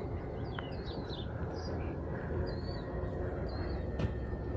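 Small birds chirping in short, scattered notes over a steady low rumble.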